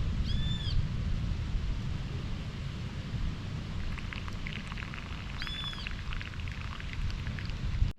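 Wind buffeting the microphone in a heavy, steady rumble, with two short rising-and-falling calls from an animal, likely a bird, about a second in and again about five seconds later, and light scattered clicks in between.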